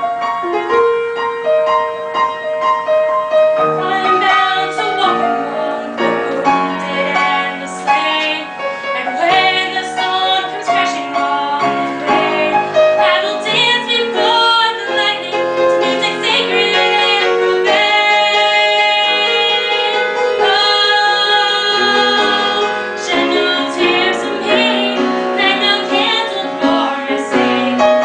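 A woman singing a ballad with piano accompaniment, holding long notes.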